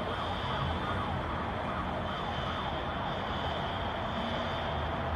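A siren with a high tone that swells and fades about every two seconds, over steady background noise.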